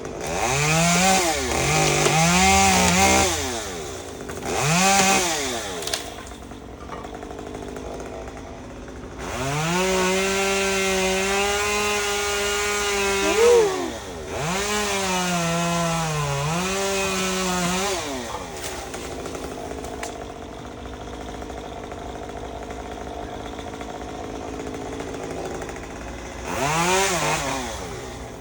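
Two-stroke chainsaw revved in short bursts, then held at high revs for several seconds with a brief dip, settling to a steady idle before revving again near the end.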